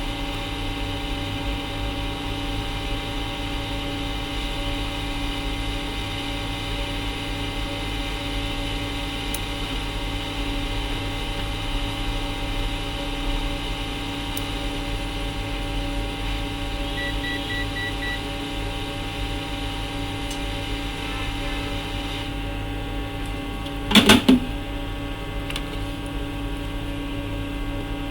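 Steady electrical hum from bench equipment, with a short run of about four beeps a little past halfway and a brief loud clatter of knocks near the end.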